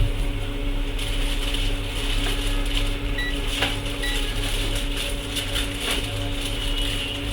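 Small clicks and rattles of tools and board parts being handled on an electronics repair bench, with two very short high beeps about three and four seconds in, over a steady electrical hum.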